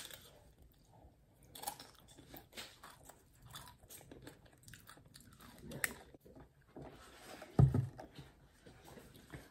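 Tortilla chips with guacamole being bitten and chewed close to the microphone, with many short crisp crunches. A single low thump about three-quarters of the way through.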